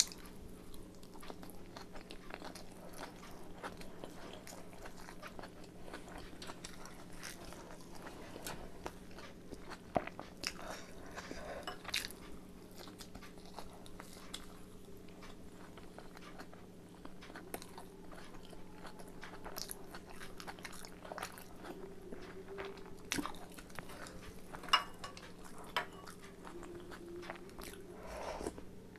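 Close-up chewing and biting while eating chicken momo dumplings, with many short, irregular mouth clicks and smacks. A steady low hum runs underneath.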